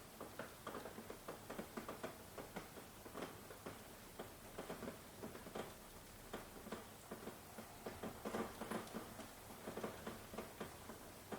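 Rain pattering: a steady faint hiss with many irregular drops ticking on a surface.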